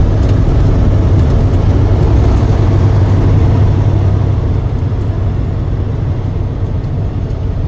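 Truck engine and road noise: a steady low rumble that eases off slightly about two-thirds of the way through.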